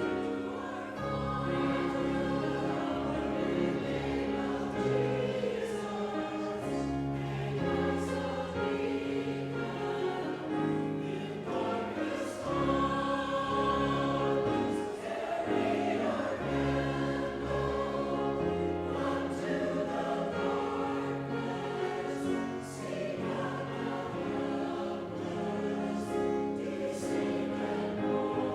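Church choir singing a sacred song, with sustained chords that change every second or so.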